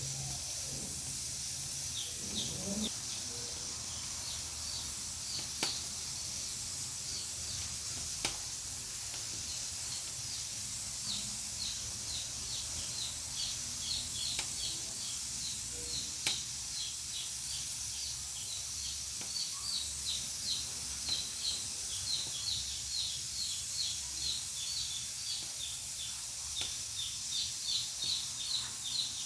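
Pressure cooker on a wood-fired stove hissing steadily as steam escapes, with an occasional sharp pop from the fire. Over it runs a series of short high chirps that grow more frequent toward the end.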